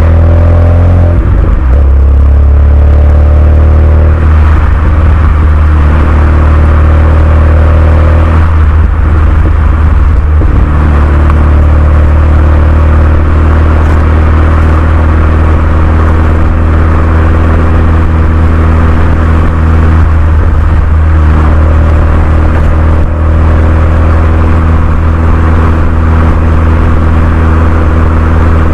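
Renault Mégane 2 RS turbocharged 2.0-litre four-cylinder running through a Milltek cat-back exhaust, holding a steady engine speed with a deep, loud drone. The note shifts slightly in pitch a few times.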